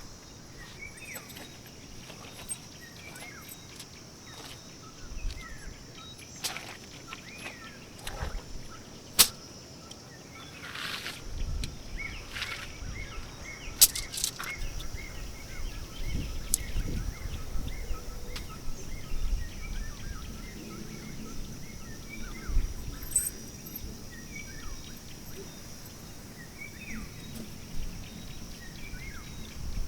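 Outdoor ambience: many small bird chirps over a steady high insect drone, with wind rumbling on the microphone from about a third of the way in. Two sharp clicks or knocks stand out, a little under a third of the way in and near the middle.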